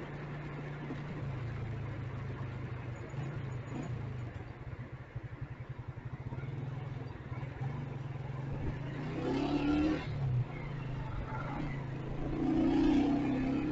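Motorcycle engine running steadily while riding in city traffic, with louder surges of engine or traffic noise about nine seconds in and again near the end.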